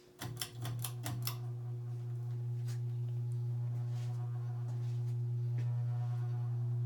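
Cast-iron-motor ceiling fan switched on with a few quick clicks, then a loud, steady low hum that swells slowly as the motor spins up. The hum comes from the motor plate sitting metal to metal on the mounting bracket, its rubber isolation bushings rotted away, which the owner takes as the likely main cause of the noise.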